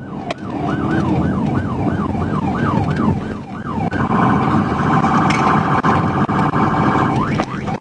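Police car siren in a yelp, sweeping up and down about three times a second, switching about four seconds in to a fast, steady warble, then back to the yelp near the end, over the patrol car's road and engine noise during a pursuit.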